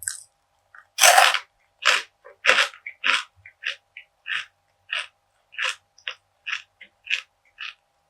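Crunchy bite into a piece of perilla seed brittle (deulkkae gangjeong) about a second in, the loudest sound, followed by steady crunchy chewing at about two chews a second.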